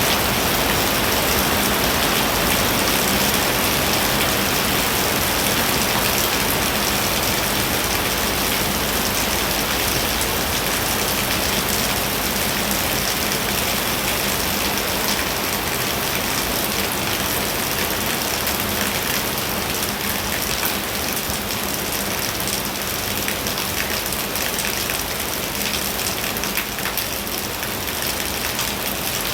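Heavy rain pouring steadily, a dense even hiss of countless drops striking a surface.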